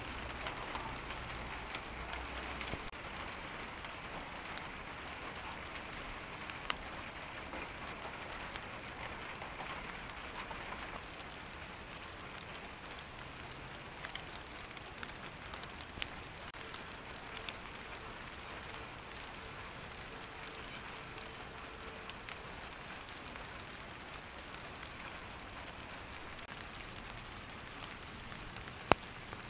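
Steady rain falling on garden leaves and flowers, an even hiss dotted with close drops ticking at irregular moments; one sharper drop tick near the end.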